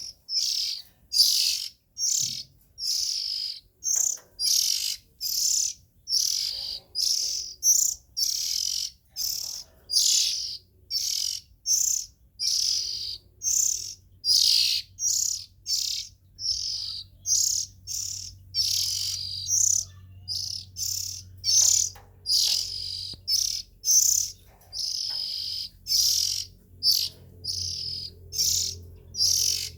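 Young Oriental magpie-robin calling: a continuous run of short, high chirps, close to two a second.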